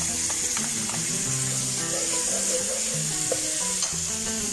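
Chili paste sizzling in hot oil with sliced onions and garlic in a frying pan, stirred with a wooden spatula, over soft background music with held notes.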